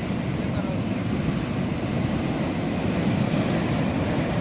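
Ocean surf washing in with wind buffeting the microphone: a steady low rushing noise.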